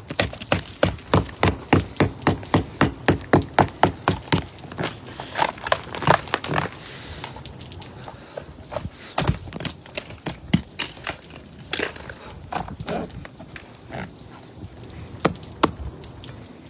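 A pointed metal spike chipping at thick ice that glazes a car: quick, regular strikes at about four a second for the first few seconds, then slower, scattered knocks.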